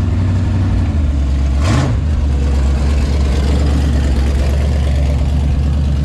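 Car engine idling loudly and steadily, with one brief blip of the throttle a little under two seconds in.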